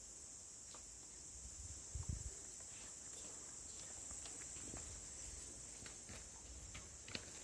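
Faint swiftlet cave ambience: a steady high-pitched hiss with scattered sharp clicks, and a low thump about two seconds in.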